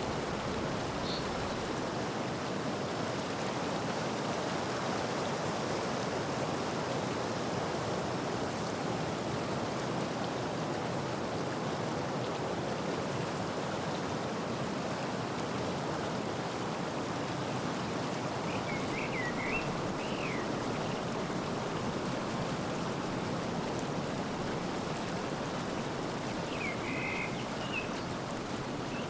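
Steady rushing water noise, with a few short high chirps about a second in, around twenty seconds in and near the end.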